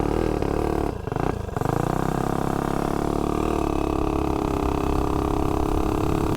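Tillotson 225 single-cylinder engine of a mini bike, fitted with a GoPowerSports Fire 265 cam, running steadily, with two brief dips in its sound about a second in.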